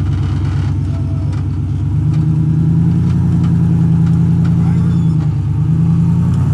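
Jeep Wrangler LJ engine working under load in low-range rock crawling as the Jeep tries to climb a rock ledge; the revs rise about two seconds in and hold, with a brief dip near the end.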